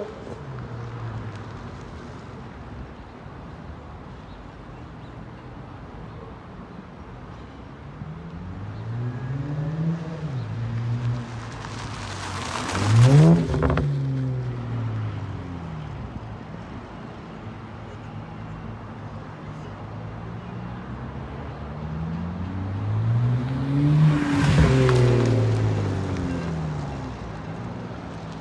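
BMW 335i's N54 twin-turbo inline-six, exhaust muffler-deleted, running under way with a steady low drone. It revs up and falls back several times. The two strongest climbs, about 13 seconds in and near 25 seconds, each end in a sharp crack as the revs drop.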